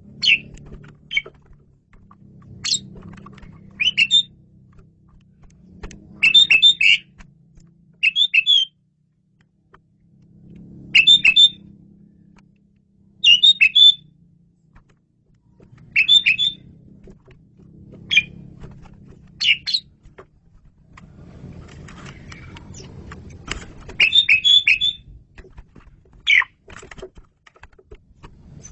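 Asian pied starling singing: short bursts of shrill whistled and chattering notes, repeated every one to two seconds.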